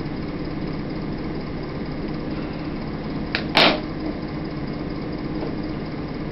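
A steady low hum, like a running motor or fan, with one sharp knock about three and a half seconds in.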